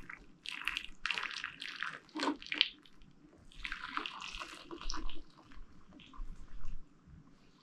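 Hot soapy water (dishwashing liquid and kettle water) being poured and splashing into an ultrasonic cleaner's tank, in uneven bursts, the heaviest in the first three seconds and another about halfway.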